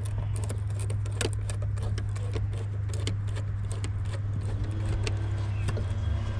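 Scattered small clicks and taps of hand tools and parts being handled while working on hoses in a car's engine bay, over a steady low hum.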